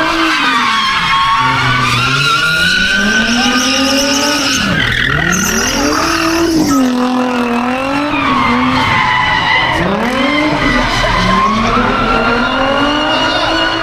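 A car engine revving up and down again and again while its tyres skid and squeal on the pavement, with a burst of harsh tyre hiss about five seconds in.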